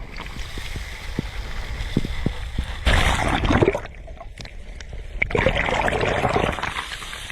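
Sea waves washing onto the shore, two surges that swell up and fade a few seconds apart, over a steady low rumble of the sea.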